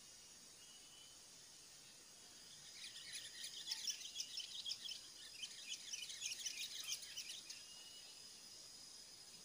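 A bird gives a fast, chattering run of high chirps, starting about three seconds in and lasting about five seconds, over a thin, steady, high insect whine.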